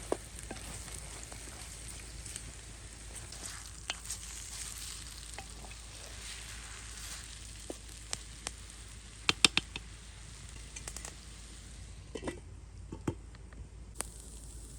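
Food sizzling as it fries in oil in a pan, a steady hiss broken by scattered sharp clicks, the loudest a quick cluster about nine and a half seconds in; the sizzle thins out after about twelve seconds.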